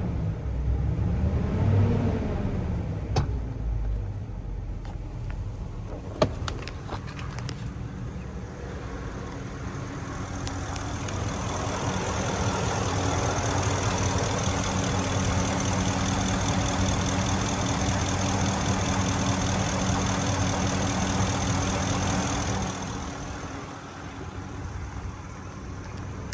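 Ford F-250 pickup engine revved briefly near the start, then idling steadily, with a few sharp clicks. A steady hiss with a high whine joins the idle for most of the middle and cuts off a few seconds before the end.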